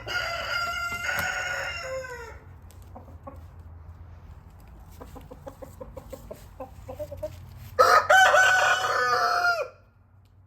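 Roosters crowing twice: one crow at the start that drops in pitch at its end, and a second, louder crow about eight seconds in. Short clucking calls come in between.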